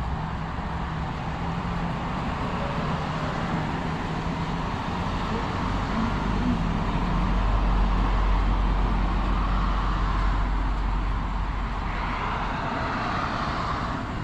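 Steady road noise from vehicle traffic, a rushing hiss over a low rumble that grows louder about halfway through.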